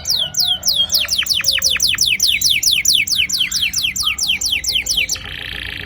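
Domestic canary singing a rapid series of repeated whistled notes, each sweeping downward, which speed up about a second in. Near the end the song switches to a short buzzy rolling trill.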